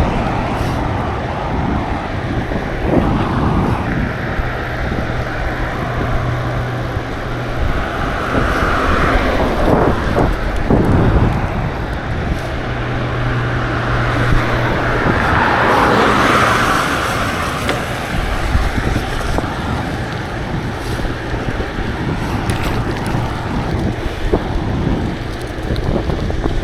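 Wind rushing over the microphone of a moving bicycle, with traffic noise underneath that swells twice as vehicles pass.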